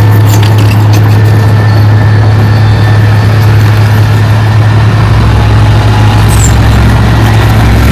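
Heavy earthmoving machine's diesel engine running steadily at one pitch, loud and close, with faint metallic clinks and squeaks. A deeper rumble comes in about five seconds in.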